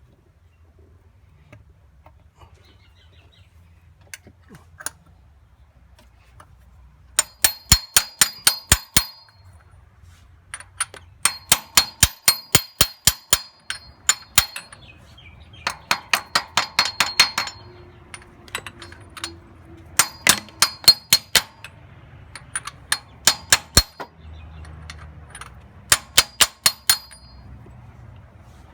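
Hammer driving a new Welsh (core) plug into an engine block through a socket used as a drift: bursts of quick, ringing metal-on-metal blows, about five or six a second, in six runs of a second or two with short pauses between them as the plug is seated.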